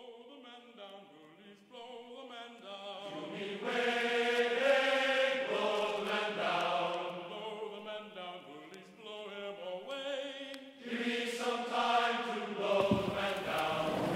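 Choir singing, with several voices holding chords together as the soundtrack music. A rushing noise comes in under the singing near the end.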